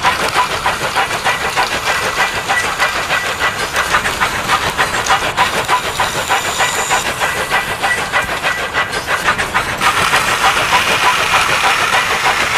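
Train running: a fast, even clatter of clicks over a steady steam-like hiss.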